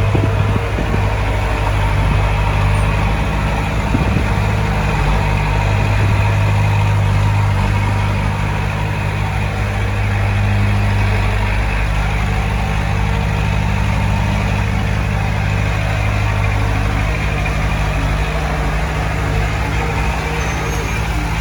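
Heavy diesel engine of earthmoving equipment running steadily at a low, even pitch, with a few faint knocks in the first few seconds.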